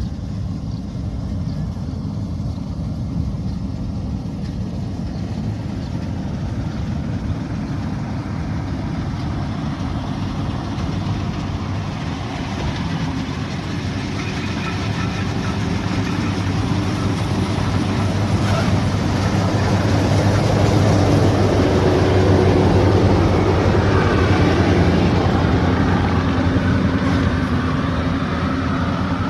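Rice combine harvester engine running steadily. It grows louder about halfway through, then eases off a little near the end.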